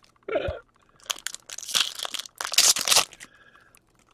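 Foil trading-card pack being torn open and its wrapper crinkled, in a cluster of quick rustling bursts lasting about two seconds.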